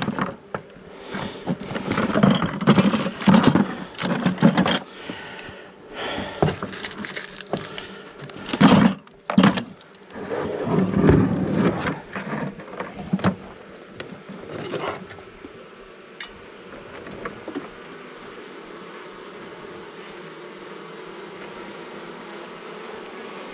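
Irregular knocking and clattering of tools and boards being handled, then a steady hum of a honey bee colony buzzing around the opened wall.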